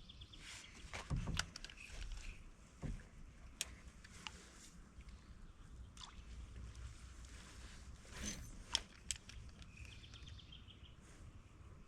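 Faint scattered clicks and light knocks over a low rumble: someone handling fishing gear in a kayak on the water.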